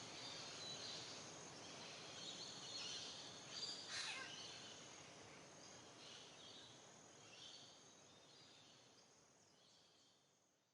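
Nature ambience of faint bird chirps over a steady soft hiss, with one sharp snap about four seconds in, fading out toward the end.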